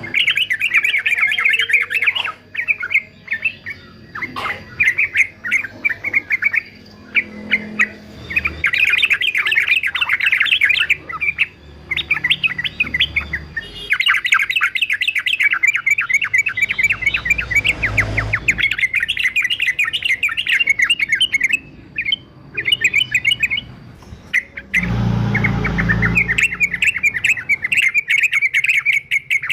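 Male yellow-vented bulbul (trucukan) singing in long runs of rapid, bubbling chattering notes, with short pauses between phrases. Two brief low rumbling noises come about two-thirds of the way through and again near the end.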